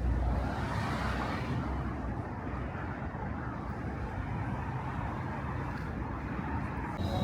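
Steady city street traffic noise, with a car passing by about a second in.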